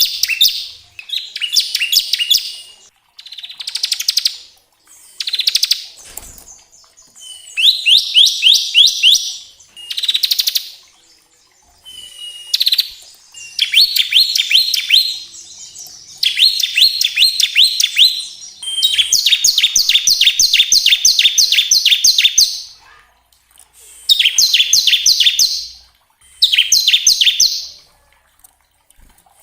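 Bar-winged prinia (ciblek) singing its fast, trilled 'ngebren' song. Rapid notes come in repeated bursts of one to three seconds, with short pauses between them; the longest burst comes a little past the middle.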